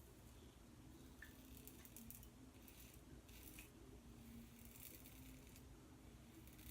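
Faint scraping strokes of a Bevel safety razor with a Sputnik blade cutting through lathered beard stubble, shaving with the grain on the first pass. There are several short strokes a second or so apart.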